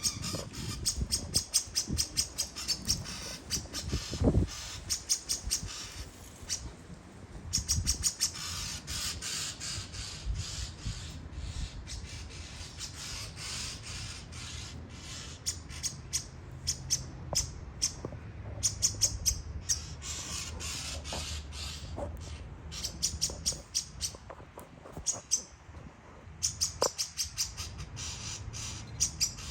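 Bird chirping in fast runs of short, high-pitched notes, several a second, broken by brief pauses. A low thump about four seconds in.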